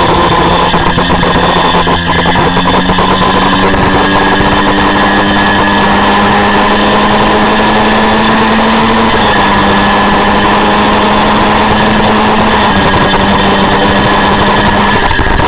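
Honda VFR400's V4 engine at race speed heard from onboard, with heavy wind rush. Its pitch climbs slowly and drops back at upshifts about nine and twelve and a half seconds in, and again near the end.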